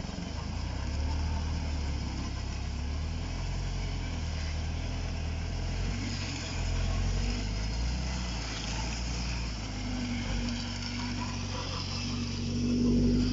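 UAZ off-road vehicle engine running in ruts. Its level swells and eases, and a steady droning tone joins about ten seconds in, getting louder near the end.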